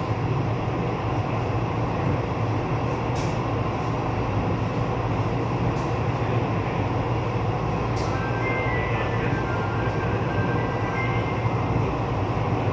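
Taiwan Railways commuter electric multiple-unit train running, heard from inside the car by the door: a steady rolling rumble, with a few short clicks and a faint high whine of several tones from about eight to eleven seconds in.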